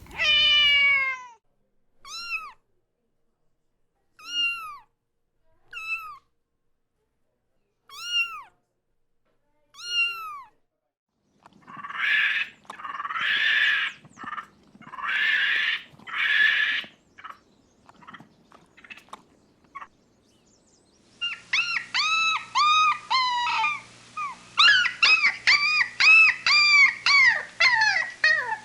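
Kittens meowing in high, thin calls: one long falling meow, then single short meows every second or two. In the middle come four short noisy bursts without pitch, and in the last third a rapid run of many meows, about two or three a second.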